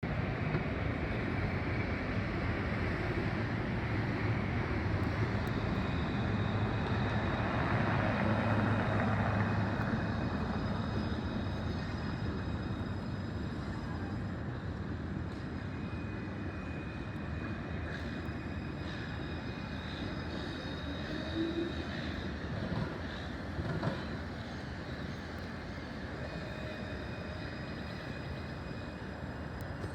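Melbourne C-class Alstom Citadis tram running along its tracks. The rumble builds to its loudest about eight seconds in and then slowly fades, with faint high whining tones and a few short knocks later on.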